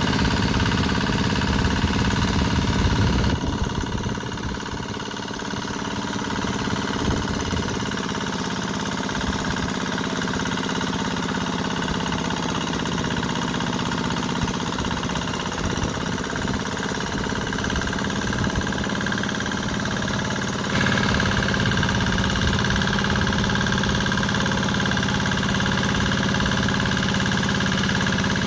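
Engine of a two-wheel hand tractor with steel mud wheels running steadily while it ploughs a rice paddy. It grows quieter a few seconds in and steps up louder about two-thirds of the way through.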